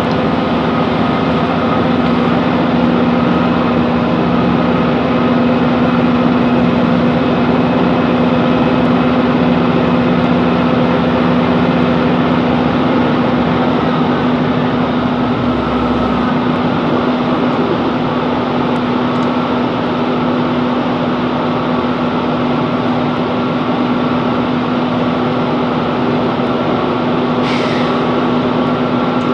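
Class 165 Networker Turbo diesel multiple unit running along the line: a steady diesel engine drone with the noise of the train in motion, holding a constant pitch and level.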